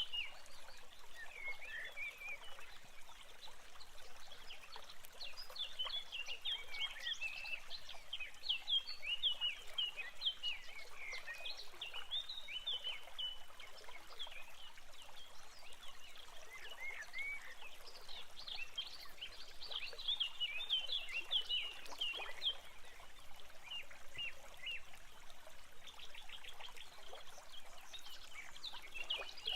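Several birds chirping and singing in quick, overlapping short calls, over a steady hiss of trickling water.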